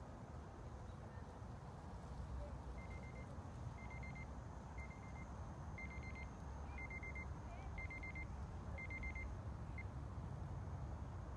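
Steady low rumble of background noise with a series of short high electronic beeps, each a quick cluster of pips, repeating about once a second around eight times before stopping.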